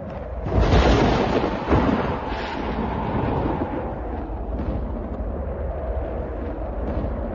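Thunder: a sudden crack about half a second in and a second, sharper crack soon after, rolling on into a long, low rumble.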